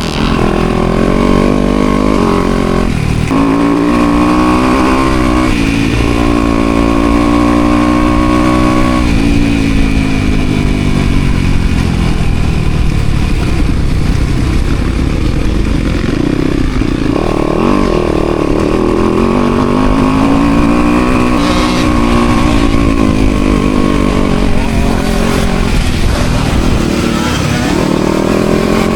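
Motocross bike engine ridden hard, its pitch rising under throttle and dropping off again several times, with steep climbs around gear changes in the first ten seconds and again later.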